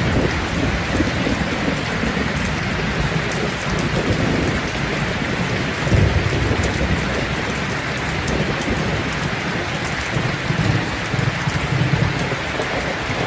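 Steady rain with low rumbles of thunder, one about six seconds in and more near the end.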